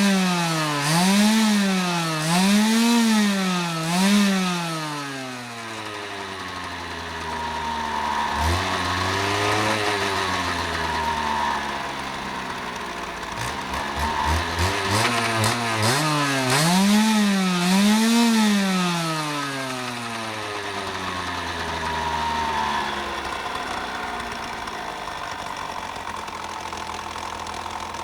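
Dirt bike engine revved in quick blips, each rising and falling back, about one a second: a run of blips at the start, a single rev near the middle, another run a few seconds later. Then it settles to a steady idle for the last several seconds.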